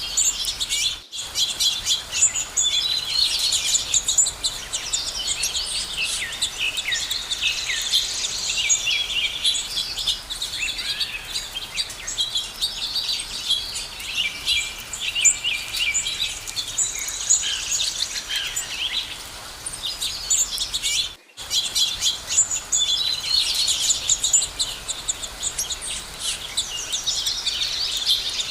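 A dense chorus of many birds chirping and calling at once, with quick overlapping chirps and trills. There are two very short breaks in the sound, about a second in and again about twenty seconds in.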